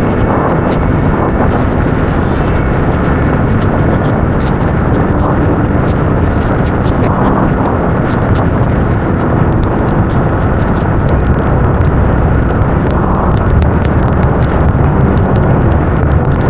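Motorcycle riding at speed: loud, steady wind rush on the helmet microphone over the engine and road noise, with scattered sharp clicks.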